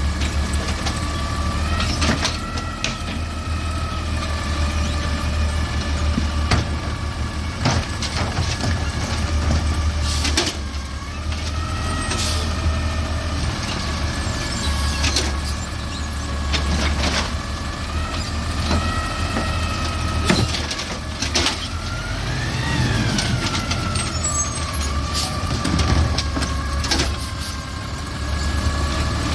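Garbage truck running, its engine giving a steady low hum under a held whine that wavers in pitch, with scattered knocks and clanks throughout.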